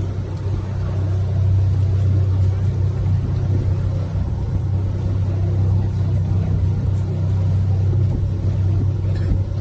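Canal tour boat's motor running steadily underway, a constant low hum heard from on board.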